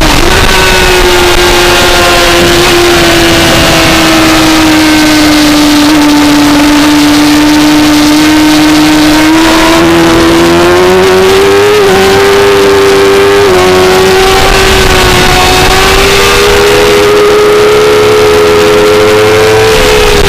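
2004 Suzuki GSX-R600's inline-four engine running under race load, heard on board the motorcycle. The engine note sinks slowly over the first nine seconds or so, then climbs. It breaks briefly about twelve and thirteen and a half seconds in, then rises gently again until near the end.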